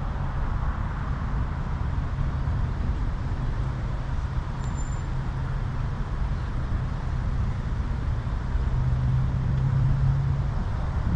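Steady rumble of road traffic noise heard during a bicycle ride, with a low vehicle hum that swells about nine seconds in and then cuts off.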